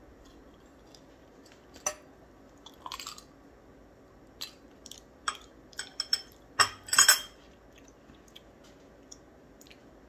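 Crunchy chewing of a mouthful of Chex Mix with pretzels and a breadstick: irregular crunches, with a louder cluster of them about two-thirds of the way through.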